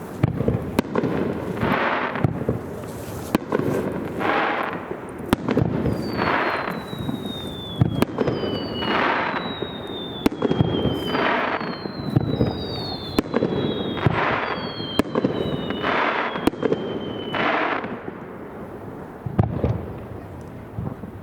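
Aerial fireworks display: a steady series of shells going up and bursting about every two seconds, with sharp cracks. From about six seconds in to near the end, several whistling tones slide down in pitch over one another.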